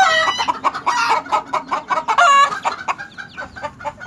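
A flock of chickens clucking and calling over one another, with many birds at once, busiest in the first couple of seconds.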